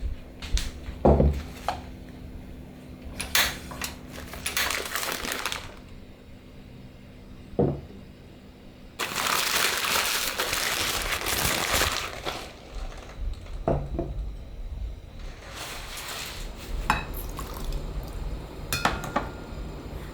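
Dishes and utensils being handled in a kitchen: scattered clinks and knocks of crockery, glass and cutlery, with two stretches of a steady rushing noise, the louder one about halfway through.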